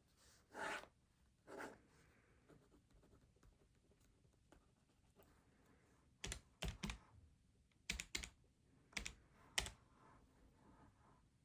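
Keys pressed one at a time on a desk: about seven sharp clicks in three small clusters in the second half, after two softer, longer scuffs near the start.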